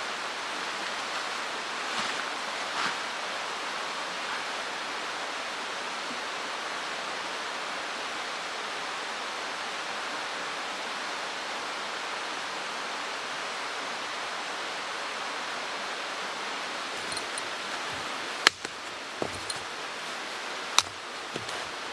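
Mountain stream rushing steadily over rocks. A few sharp knocks come near the end.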